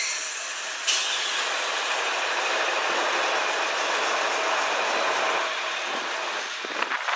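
Freight train passing close by: steel wheels rolling and clattering over the rails. There is a sharp clank about a second in and a few clicks near the end.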